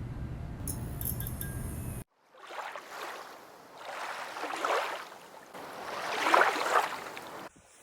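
Three swells of rushing noise, each rising and fading over a second or two, following a sudden cut about two seconds in.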